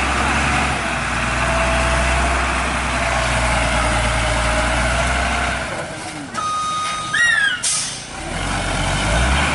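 Heavy truck diesel engine running with a steady low rumble that drops away about six seconds in. Then comes a high steady squeal lasting about a second, a few short falling squeals, and a short sharp air hiss from the truck's air brakes, before the engine rumble returns near the end.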